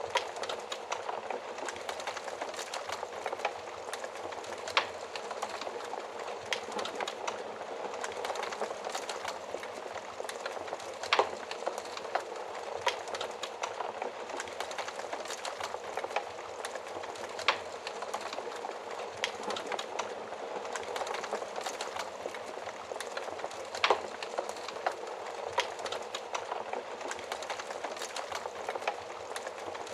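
Wood fire burning in an oven: a steady rush of flames with irregular sharp crackles and pops, a few louder snaps among them.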